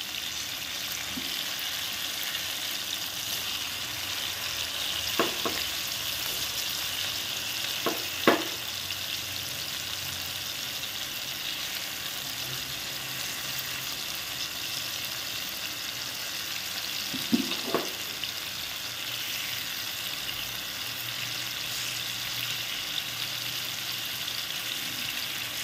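Marinated boneless chicken pieces frying in oil in a nonstick pan over medium heat, with a steady sizzle as they are turned with a spatula. Three brief knocks break the sizzle: about a fifth of the way in, about a third of the way in, and around two-thirds of the way through.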